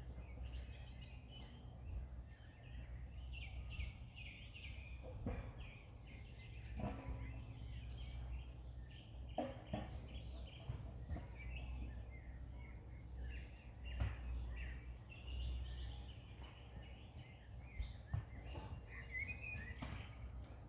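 Small birds chirping and singing in short, overlapping phrases throughout, over a steady low rumble. A few sharp clicks or knocks fall among them, the loudest about two thirds of the way through.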